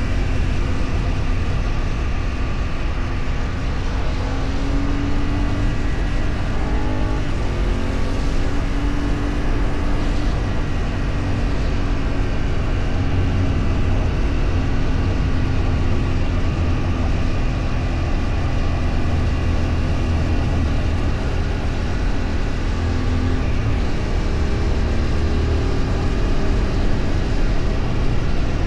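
Engine of a moving road vehicle running at cruising speed, its pitch drifting slightly up and down, over a steady rush of wind and road noise.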